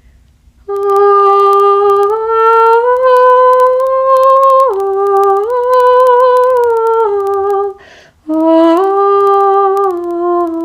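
A woman's voice toning: long sustained sung notes that step up and down between a few pitches. There is a short breath about eight seconds in, and after it the voice comes back on a lower note.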